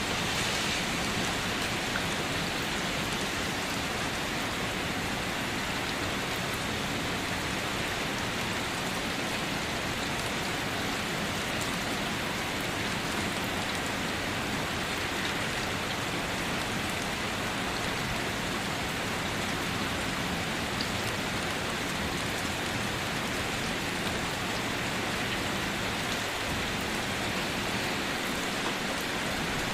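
Steady rain falling and pattering on surfaces, an even unbroken hiss of drops with no thunder.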